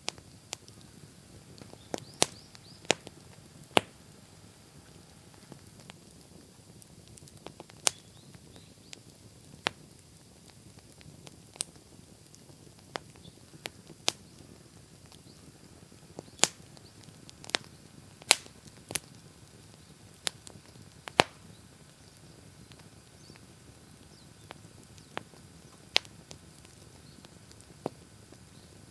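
Wood bonfire crackling: sharp pops and snaps at irregular intervals, often a second or two apart, over a faint low rush of the burning fire.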